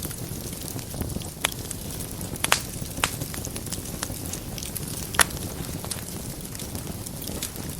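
Fireplace fire crackling: a steady low rush of flames with scattered sharp pops, the loudest about five seconds in.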